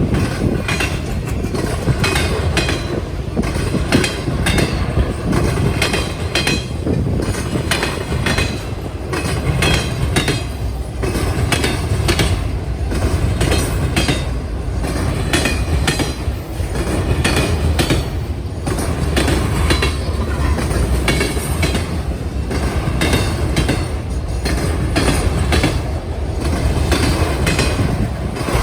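Train cars rolling over a railway diamond crossing: a steady rumble with a continuous, irregular clatter of wheels striking the crossing's gaps.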